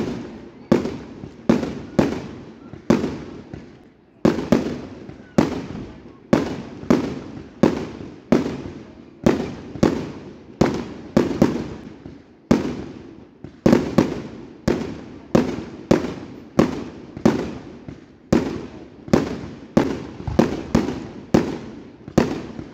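Aerial firework barrage going off shot after shot: a steady string of sharp bangs about one every two-thirds of a second, each with an echoing tail, with a brief break about four seconds in and another just past twelve seconds.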